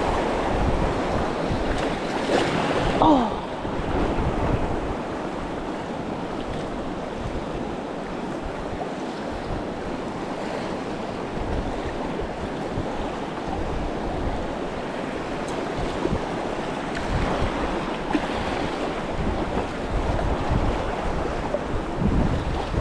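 Rushing river water with wind buffeting the microphone, and a short sound falling in pitch about three seconds in.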